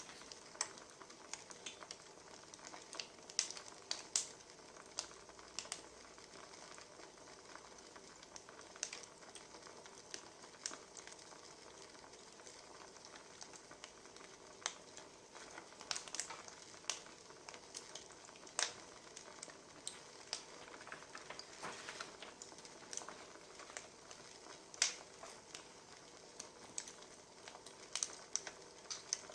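Wood fire crackling: irregular sharp pops and snaps, a few louder than the rest, over a steady soft hiss.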